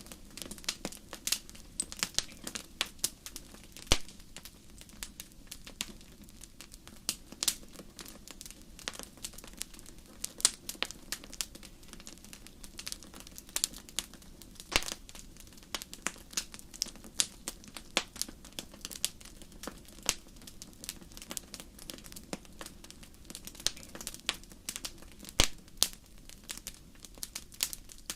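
Wood fire in a fireplace crackling, with frequent irregular sharp pops and snaps over a faint steady hiss.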